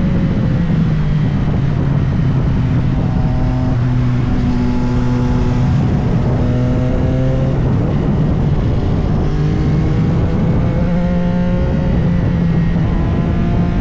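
CFMOTO 675SR-R's 675 cc inline-three engine under way on the open road, its pitch climbing within each gear and stepping at gear changes every few seconds, over steady wind and road noise.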